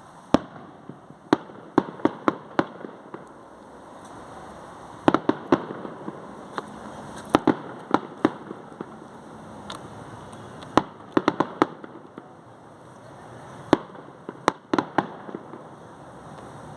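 Fireworks going off: some twenty sharp bangs in loose irregular clusters, over a steady background noise.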